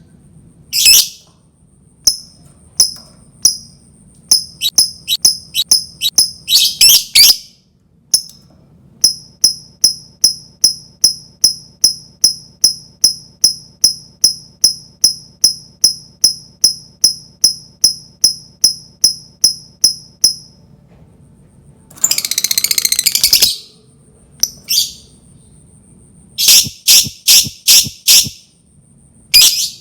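Lovebird calling: runs of short, sharp, high chirps, a long even series at about two or three a second (the clicking 'ngetik' call), then a harsh chattering trill lasting over a second about three-quarters of the way through (the 'ngekek' call), and a quick cluster of chirps near the end.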